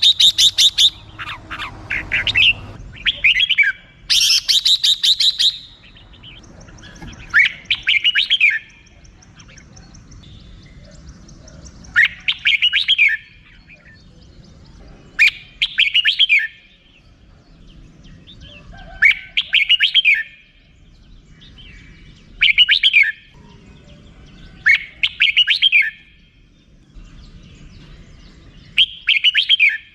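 Red-whiskered bulbul calling: a fast chattering 'rik-rik-rik' rattle right at the start and again about four seconds in, then short call phrases repeated every three to four seconds.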